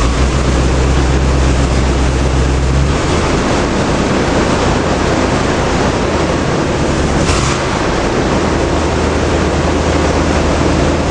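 Chevy 1500 plow truck running with a newly installed 700R4 automatic transmission and low-stall torque converter. A strong steady low drone drops away about three seconds in, leaving a loud, even rushing noise.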